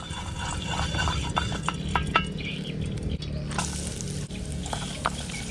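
Crackling and scattered pops over a steady low rumble, from a wood cooking fire under a pan as cooking oil goes in and heats.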